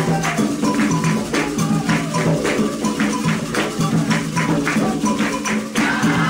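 Candomblé ritual music: hand drums and rattling percussion struck in a quick, steady rhythm under voices singing a chant.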